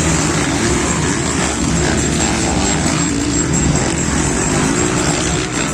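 Motocross bike engines running and revving, with their pitch wavering up and down.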